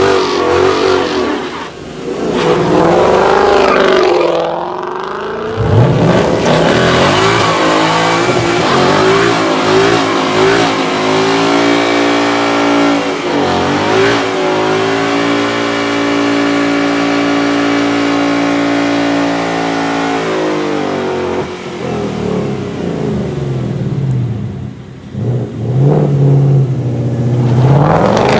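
Performance car engine revving hard, its pitch sweeping up and down several times. Midway it is held at high revs for about six seconds, as in a burnout, then falls and rises again near the end.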